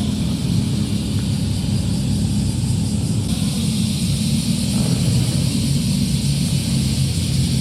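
Modified car's exhaust running at low revs, a steady low rumble with no revving.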